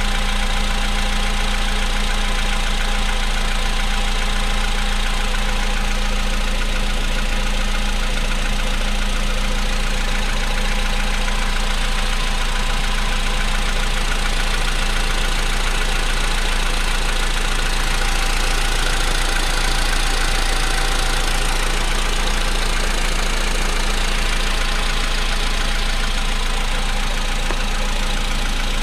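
Volkswagen Polo Sedan's 1.6-litre four-cylinder CFNA petrol engine idling cold, with a steady, rapid knocking: the cold-engine knock this engine is known for.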